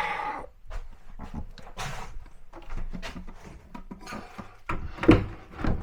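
Scattered clicks and knocks from a kitchen wall cabinet being handled and adjusted on its hanging bracket, with two louder knocks about five seconds in.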